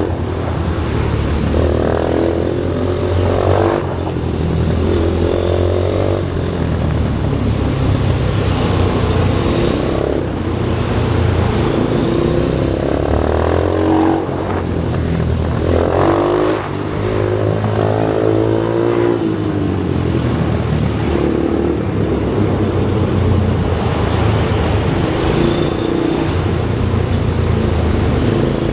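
Pit bike engine running hard around a track, its revs climbing and dropping again and again as it accelerates out of corners and backs off into them.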